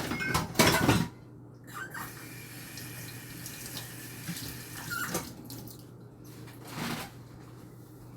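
A loud clatter, then a kitchen tap running into the sink for a few seconds, with a few light knocks of dishes.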